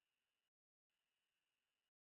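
Near silence: only extremely faint hiss, switching on and off.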